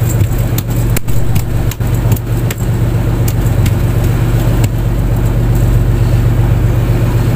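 Fishing boat's engine running at a steady speed, with a handful of sharp knocks in the first few seconds.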